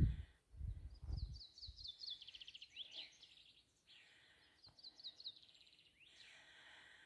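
Songbird singing two fast trills of rapidly repeated high notes, the first about two seconds in and the second near the five-second mark. Low rumbling bursts fill the first second and a half.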